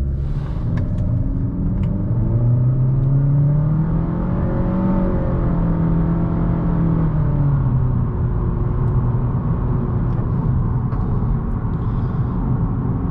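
Honda Accord's turbocharged 1.5-litre four-cylinder engine pulling under acceleration over a steady road and tyre rumble: the engine pitch climbs over a few seconds, holds, then falls away as the driver backs off.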